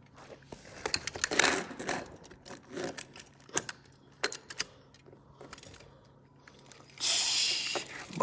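Toy trucks clicking and rattling as they are handled and pushed on a floor, with a louder clatter about a second and a half in and a burst of rustling noise near the end.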